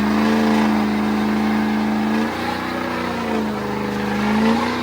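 Truck engine held at high revs during a burnout, over a broad hiss. The engine's pitch stays steady for about two seconds, then dips and climbs back up.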